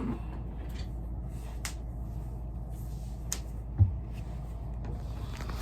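Small handling noises in a small room: two faint clicks and a soft low thump, over a steady low hum.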